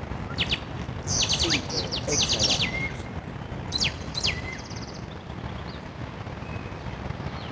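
Birds calling outdoors: several quick runs of high chirps and a couple of short falling whistles in the first half, over a steady low rumble.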